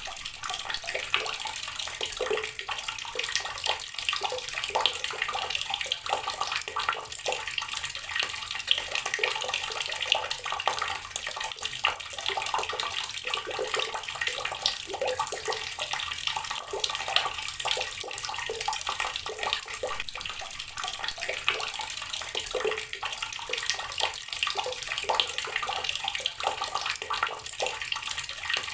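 Water from a tap pouring and splashing onto rocks, a steady splashing with many small spatters.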